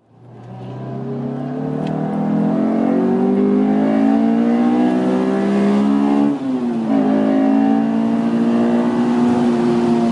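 2002 Honda S2000's 2.0-litre four-cylinder engine under hard acceleration, heard from inside the car: the engine note rises steadily, drops with one upshift about six seconds in, then climbs again.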